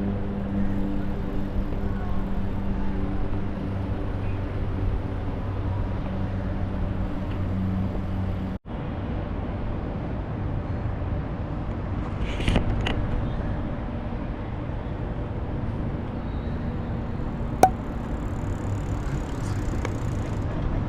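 Steady outdoor traffic and road noise, with a steady engine-like hum for the first eight seconds or so. The sound cuts out for an instant about eight and a half seconds in, and a single sharp click comes near the end.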